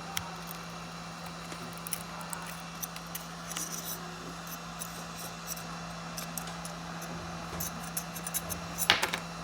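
Small metal repair tools clicking and tapping against phone parts, with a louder cluster of clicks near the end, over a steady low electrical hum.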